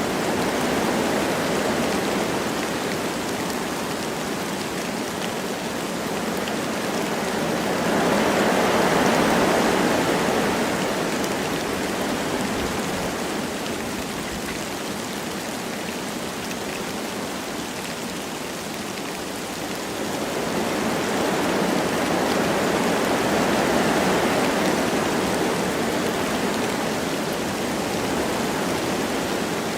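Wind blowing through forest trees with light rain falling, a steady rushing hiss that swells in two gusts, one about a third of the way in and another about two thirds of the way in.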